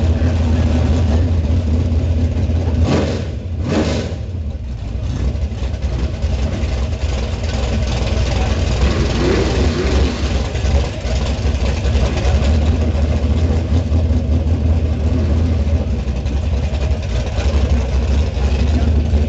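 Small-block V8 drag car engine running with a steady low rumble, with two brief sharp noises about three and four seconds in.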